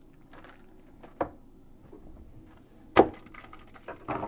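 Handling knocks from plumbing parts and tools being set aside: a light knock about a second in, then a sharp, louder knock about three seconds in, with faint clicks between.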